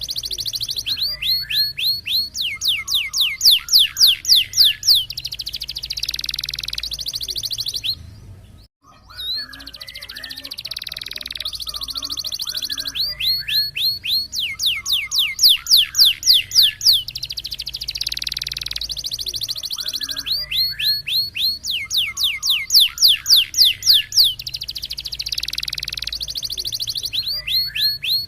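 Canary singing a roll-and-shoot song: a long buzzing rolled trill, then a run of quick downward-sweeping whistled notes, about four a second, the phrase repeating over and over. The song cuts out briefly about eight seconds in.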